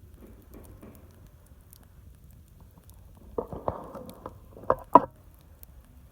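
Wood fire burning inside a drilled log torch, crackling, with a cluster of sharp pops in the second half, the loudest about five seconds in.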